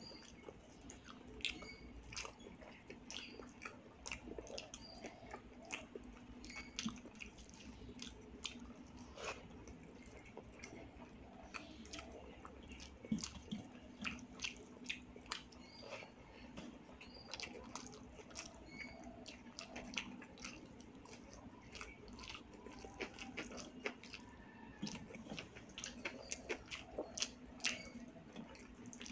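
Close-miked wet chewing of rice mixed with mashed vegetable bhorta, eaten by hand: many small sticky mouth clicks and smacks. Fingers squish and mix the rice on a metal plate between mouthfuls.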